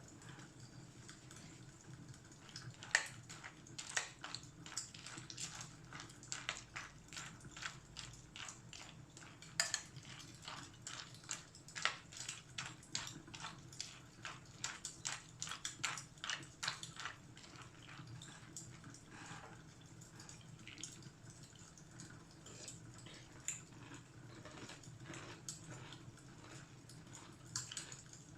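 Fireplace fire crackling: irregular sharp pops and snaps, thickest in the first half, over a steady low rumble.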